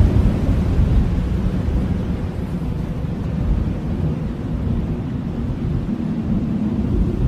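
Blizzard wind blowing hard with a deep, steady rumble and rising and falling gusts. A low howling tone comes in near the end.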